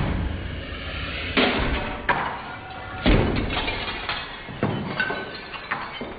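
A series of thuds and knocks, about four heavy ones a second or so apart, each dying away briefly.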